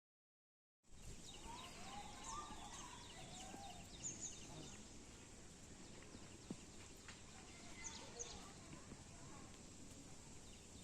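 Quiet outdoor ambience that begins about a second in: a steady hiss with scattered short, high bird chirps and faint distant voices.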